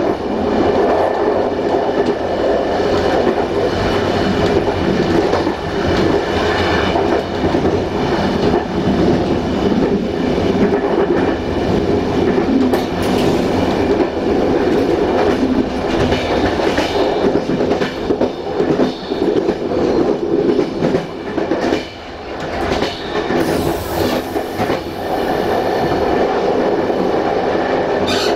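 A passenger train carriage rolling along jointed track: a steady rumble of wheels on rail, with clicks as the wheels cross the rail joints. The noise eases briefly about three-quarters of the way through.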